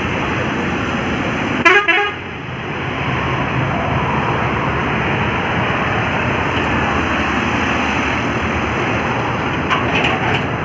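Heavy truck traffic on a highway: steady engine and tyre noise, with a short loud horn blast about two seconds in and a couple of fainter horn toots near the end.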